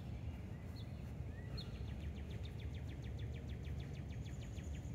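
A small songbird calling: a couple of short high chirps, then a rapid trill of about nine notes a second lasting a little over two seconds, ending in a thin high whistled note, over a low steady rumble.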